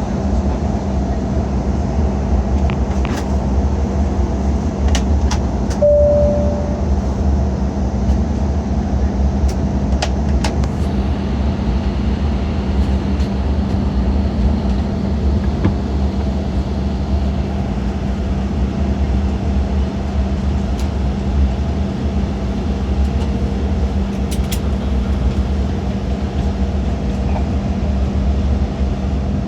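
Steady cabin noise inside an Embraer E190 airliner on approach, a continuous low engine and airflow drone. About six seconds in, a short single tone sounds, and a few faint clicks are scattered through.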